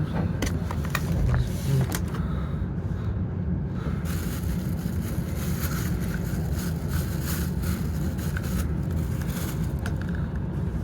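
Steady low rumble of a W7 series Shinkansen train under way, heard inside the passenger car, with a few sharp clicks in the first two seconds.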